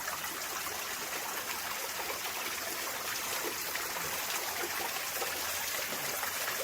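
Water running steadily and trickling, a small flow of mine water draining out of an old mine adit.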